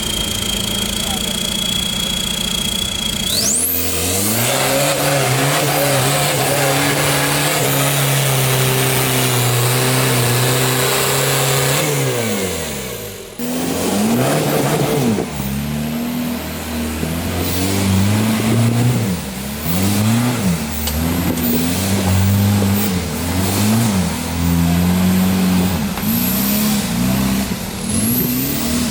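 Off-road 4x4 competition vehicle's engine held at high revs for several seconds, then dropping away. It is then revved up and down again and again, about once a second. In the first few seconds a high steady whine sweeps upward and stops.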